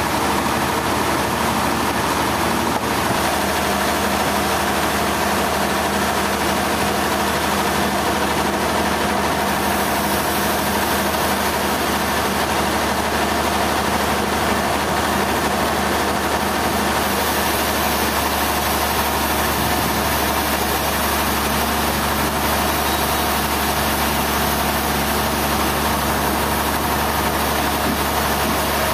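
Sawmill machinery running steadily: an engine holding an even speed with a continuous mechanical hum and noise, without breaks.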